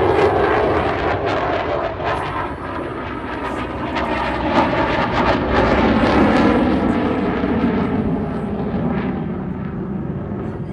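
Fighter jet's engine roar as it flies past, loud and swelling again about halfway through, its pitch slowly dropping as it fades toward the end.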